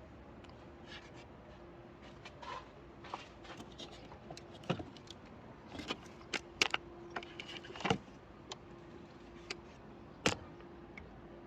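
Irregular metallic clicks, clinks and knocks of hand tools and parts being handled during repair work, the loudest knocks about five, eight and ten seconds in, over a faint steady hum.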